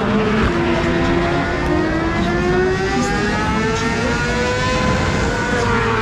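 1000 cc superbike engines at race speed, the engine note climbing slowly for several seconds and dropping near the end.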